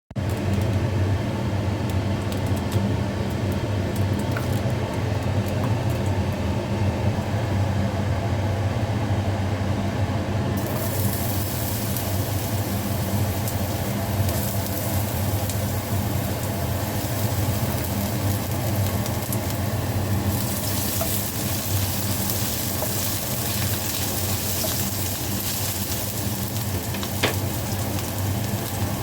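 Chicken feet frying in a hot pan: a steady sizzle over a low hum. The sizzle grows louder and hissier about ten seconds in, and again about twenty seconds in.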